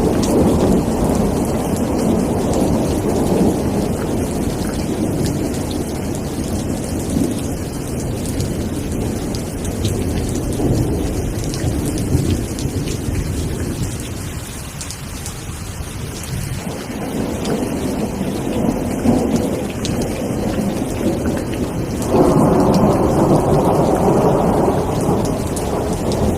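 Steady rain with low thunder rumbling underneath, easing around the middle and swelling into a louder roll near the end.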